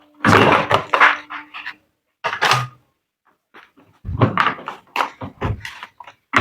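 Irregular clicks and knocks of a top-load washing machine's control-panel parts being handled and taken off, in bursts with a pause about three seconds in.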